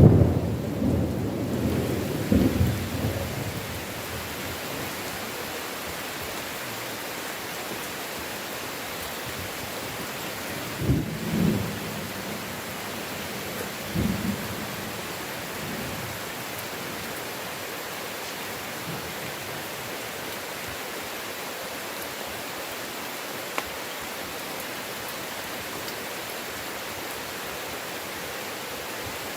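Steady heavy rain in a thunderstorm. A loud thunderclap right at the start rolls on for about three seconds, and two shorter rumbles of thunder follow about 11 and 14 seconds in.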